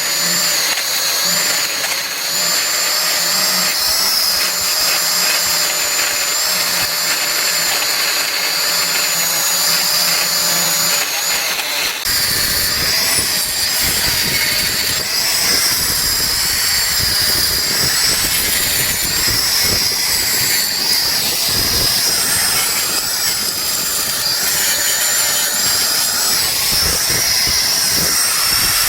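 Power tool running steadily in the axe-making workshop, with a continuous high whine that wavers slightly in pitch. The sound changes character about twelve seconds in, as if a different tool or a heavier load takes over.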